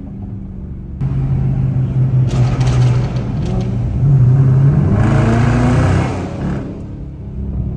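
Dodge Charger R/T's 5.7 L Hemi V8 accelerating. Its note jumps louder about a second in, climbs again over the next few seconds, then eases off near the end.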